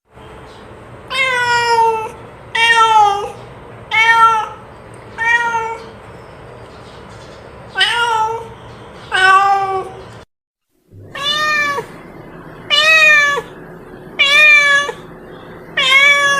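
A domestic cat meowing over and over, about ten short meows, each rising then falling in pitch. About ten seconds in the sound drops to silence for under a second.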